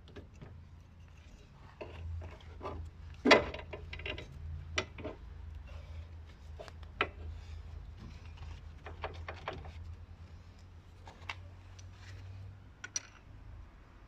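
Irregular clinks and knocks of metal tools and parts being handled during car repair work, with one sharper knock about three seconds in, over a steady low hum.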